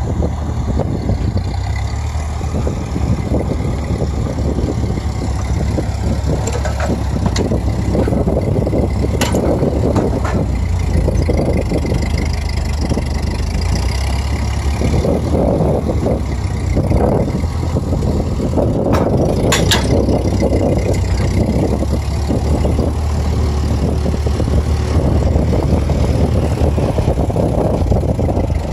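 Ford 8N tractor's four-cylinder flathead gasoline engine running steadily, with a few sharp metallic clanks along the way.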